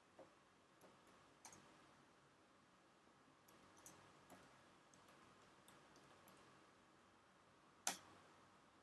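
Near silence with faint, irregular clicks from computer input, and one sharper click near the end.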